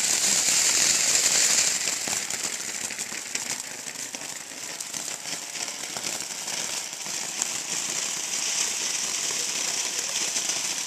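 Ground fountain firework spraying with a steady hiss and dense crackling. It is loudest for the first couple of seconds, then carries on a little lower.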